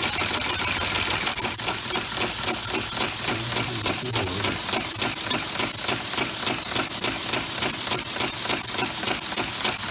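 Home-built three-cylinder compressed-air engine running, its exhaust puffing out in a rapid, even stream of hissing pulses several times a second, slowing slightly about a second and a half in.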